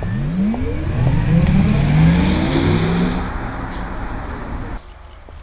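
Audi R8 e-tron's synthesized electric-car driving sound, made of several layered tones rising in pitch as the car accelerates, loudest about two seconds in and cut off abruptly near the end.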